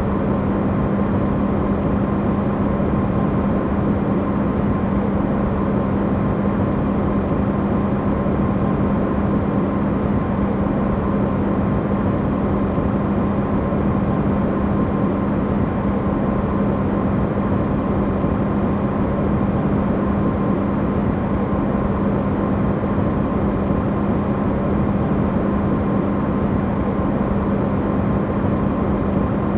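Amplified running sound of an Electrolux refrigerator: a steady, even rushing noise with a constant low hum, used as white noise.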